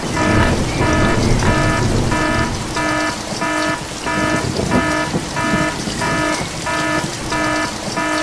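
An electronic beeper sounding a steady run of short, even beeps, about two a second, over a steady hiss and low rumble.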